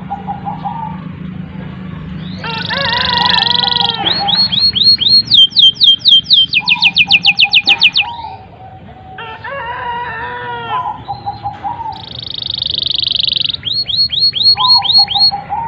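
Domestic canary singing a long, continuous song: warbled phrases, held buzzy notes and fast trills of rapidly repeated notes, one after another without a break.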